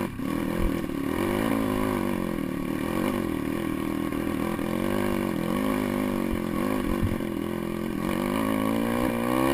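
Pit bike engine running under way, its pitch rising and falling over and over as the throttle opens and closes, with a few short knocks from the bike over rough ground.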